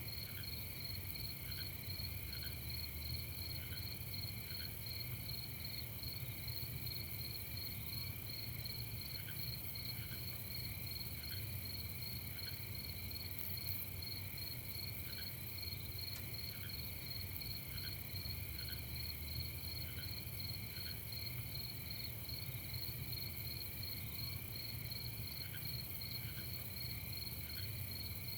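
Crickets chirping steadily in fast, even pulses, several high tones at once, with scattered short lower chirps every second or so in spells, over a faint low rumble.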